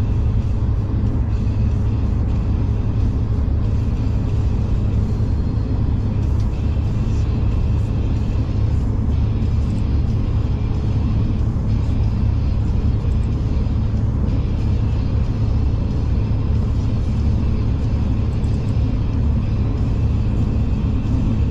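Steady low rumble of a passenger train running at speed, as heard inside the carriage: constant running noise from the wheels and underfloor, unchanging throughout.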